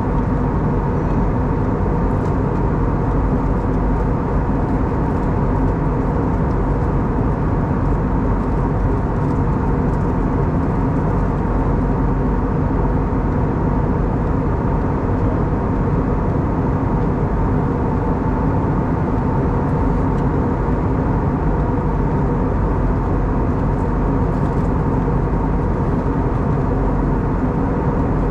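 Steady cabin drone of an Airbus A320neo in flight: the hum of its CFM LEAP-1A engines mixed with airflow noise, with a few constant hum tones over an even rush.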